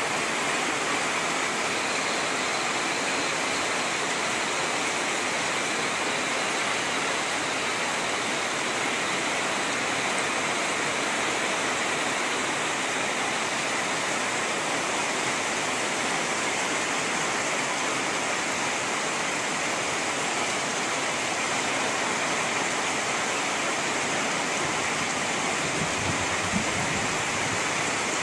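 Steady heavy rain, an even hiss of rainfall, with a brief low rumble near the end.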